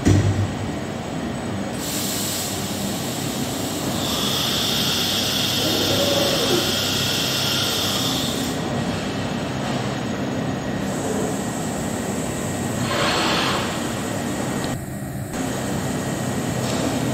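DMS 505i CNC router running: a steady mechanical drone, with a high whine from about four to eight seconds in and again briefly around thirteen seconds.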